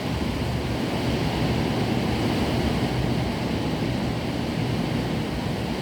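Heavy rain falling in a strong wind: a steady, even noise with no breaks.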